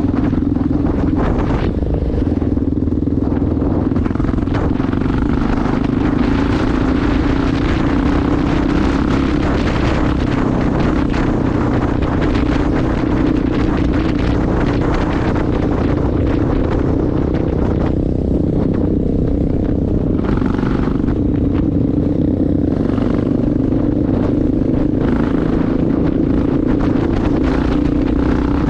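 Honda XR650L dirt bike's single-cylinder four-stroke engine running at a steady cruising speed, with wind rushing over the microphone.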